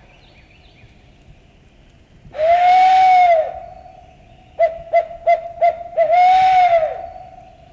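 Loud owl hooting in a barred owl's 'who cooks for you' pattern: one long arched hoot, then five quick short hoots, then a final long hoot that drops away at the end.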